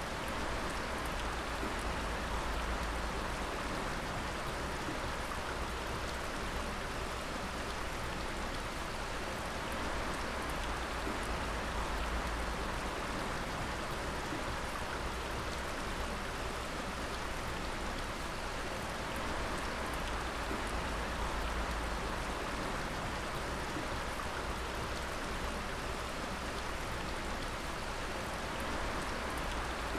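Water dripping and splashing steadily, a dense continuous patter of drops with a low rumble underneath.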